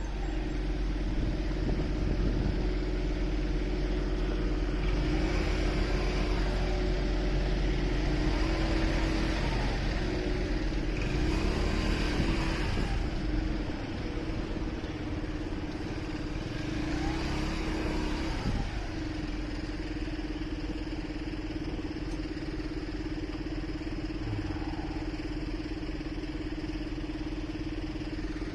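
Motorcycle engine running in city traffic, with other vehicles passing about 12 and 18 seconds in. After about 19 seconds the engine note holds steady and a little quieter, as at idle.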